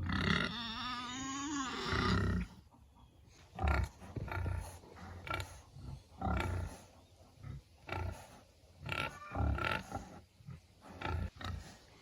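Pigs grunting: a long, wavering call in the first two seconds, then a series of short, low grunts.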